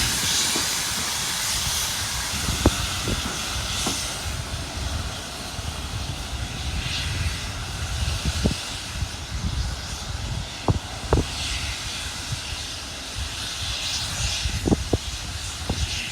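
Steam locomotive hissing steam over a low rumble, the hiss swelling in brief gusts a few times, with scattered light clanks.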